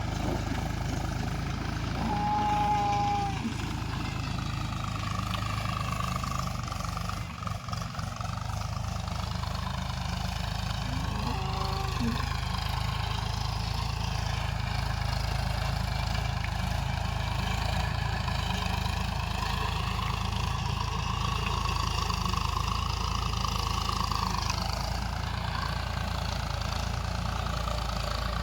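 A 39 HP tractor's engine running steadily while working a cultivator, its pitch wavering slightly with load. Two short high tones sound over it early on.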